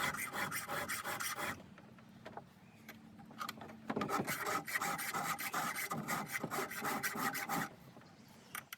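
Round file rasping over the cutters of a semi-chisel chainsaw chain in quick hand strokes: a run of strokes, a pause of about two seconds, then another run, as the cutting edges are sharpened.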